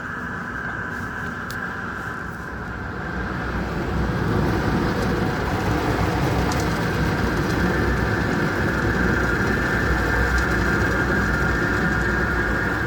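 Christ Varius automatic car wash running: a steady rush of machinery and spray noise with a high steady whine over a low rumble, growing louder about four seconds in.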